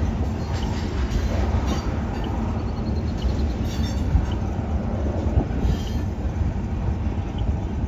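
Freight train tank cars and a lumber flatcar rolling past, their steel wheels rumbling and clacking on the rail joints, with a brief faint wheel squeal about three seconds in.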